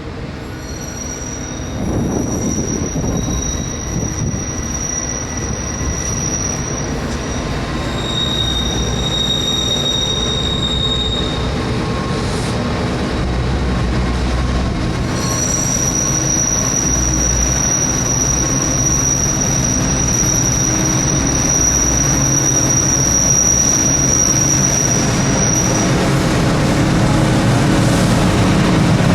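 Diesel freight train moving slowly along the curved track, its locomotive running with a low rumble that grows louder, while the wheels give high-pitched flange squeals. There are a few short squeals in the first half, then one long steady squeal from about halfway until near the end.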